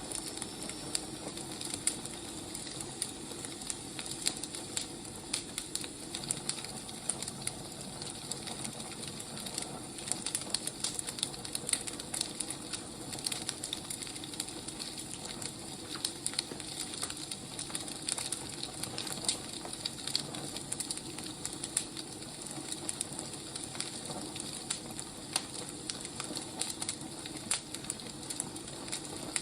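Wood fire crackling: a steady hiss with many irregular pops and snaps.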